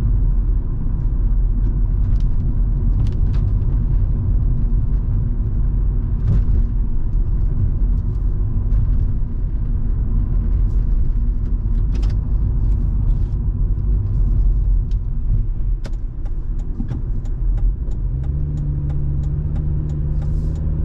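Volvo V70 2.5T's turbocharged five-cylinder engine and road noise heard from inside the car while driving in rain: a steady low rumble with scattered sharp ticks of rain hitting the car. Near the end a steady engine hum comes through, rising slightly in pitch.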